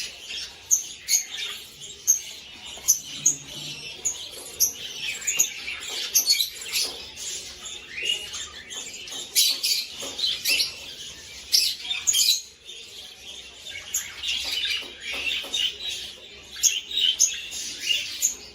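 Budgerigars chirping: a constant run of rapid, short, high-pitched chirps, typical of budgie chicks begging while their parents feed them.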